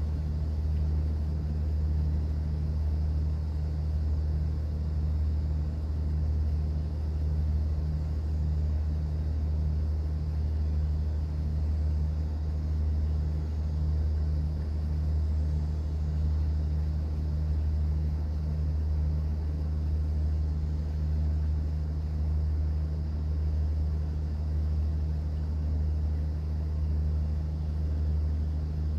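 Steady low drone of a cruise boat's engine heard on board, unchanging throughout, over a faint even wash of water.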